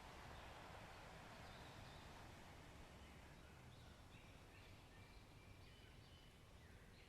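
Faint outdoor nature ambience: a soft wash of noise that eases off over the first couple of seconds, with small birds chirping in short high notes from about a second and a half in, more often toward the end.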